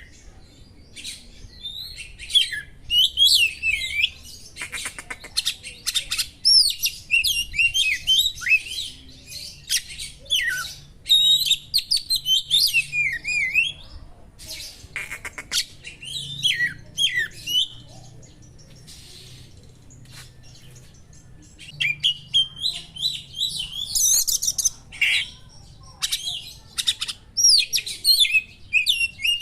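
Oriental magpie-robin (kacer) singing a varied song of clear whistles, quick chirps and harsh rasping notes, in bursts with a quieter spell partway through. The song is full of imitations of small birds.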